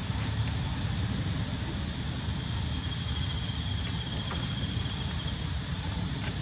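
Steady low rumble under a constant high insect drone, with a thin, higher buzz for about two seconds in the middle.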